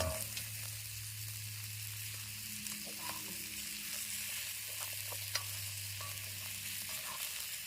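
Chicken, onion, pepper and jasmine rice stir fry sizzling steadily in a hot pan, with a few faint clicks through it.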